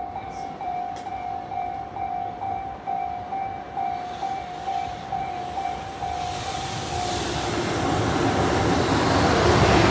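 A level-crossing warning bell ringing about twice a second. From about six seconds in it is overtaken by the growing noise of an approaching freight train hauled by an EF210 electric locomotive, with a steady hum in the mix.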